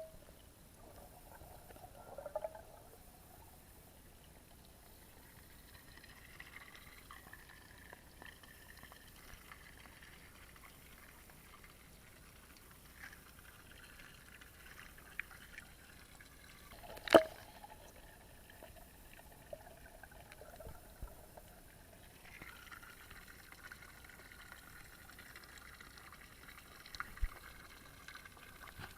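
Faint water trickling and dribbling. A single sharp click or knock comes a little past halfway through.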